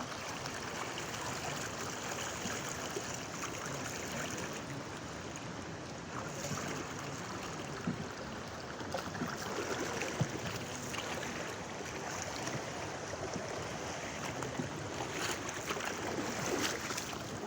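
Flowing river water: a steady rushing hiss, with a few faint knocks.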